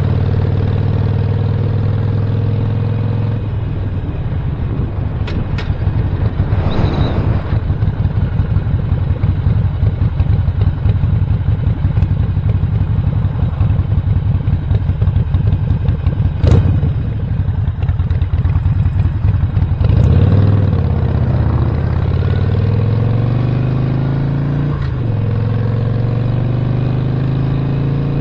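2017 Harley-Davidson Roadster's 1200 cc air-cooled V-twin with a Stage 1 upgrade, running steadily at first, then with a rough, pulsing note for most of the stretch. From about twenty seconds in, its pitch rises and falls several times as it revs up and settles. A single sharp click comes about two-thirds of the way through.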